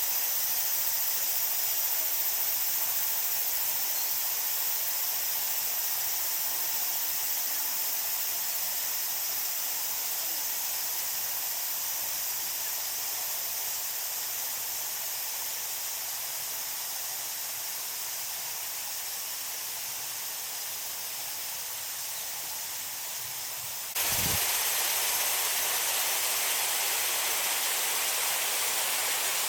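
Small garden waterfall: a steady rush of falling water. About 24 seconds in, the sound jumps abruptly to a louder, brighter rush, with a brief low thump at the change.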